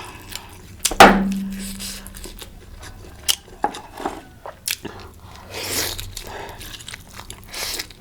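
Close-up eating sounds: chewing and biting of food, with wet mouth noises and small clicks. About a second in, a loud knock that rings briefly before dying away.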